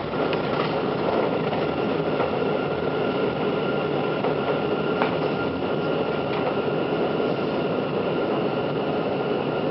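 Kintetsu train running through the underground Namba Line tunnel: a steady rumble of wheels on rail with a thin, high, steady squeal over it, and a single sharp click about halfway through.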